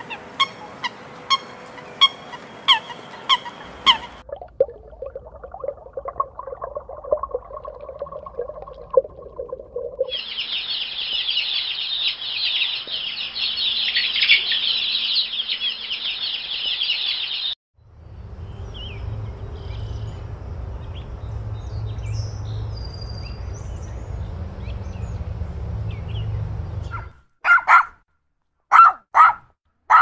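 Several different animal sounds follow one another. The clearest, in the middle, is a group of chicks cheeping steadily for about seven seconds, and a few short, loud calls come near the end.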